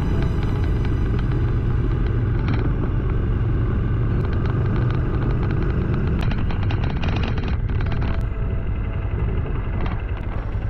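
Motorcycle engine running steadily while riding, with road and wind rumble. It eases off slightly near the end.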